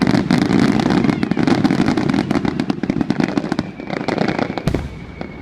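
Fireworks going off: a dense, rapid crackling of many small bursts that thins out, flares again about four seconds in with one heavier bang, then dies away.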